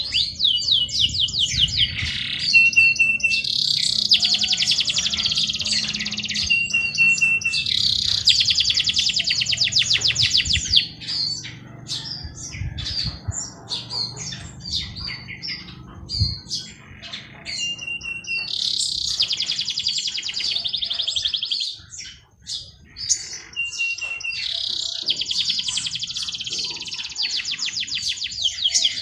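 Songbirds singing: one bird repeats a song of a short steady high note followed by a long, fast trill, four or five times, with other birds' short chirps in between.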